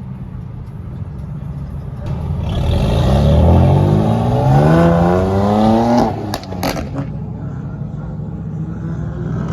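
A car engine accelerating hard, its pitch rising steadily for about three seconds before it cuts off sharply, followed by a few sharp cracks and then a steadier, lower engine sound.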